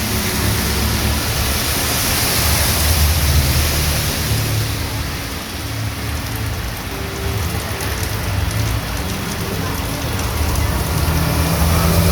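Heavy rain pouring steadily onto a street, with a low engine hum underneath that swells a few seconds in and again near the end.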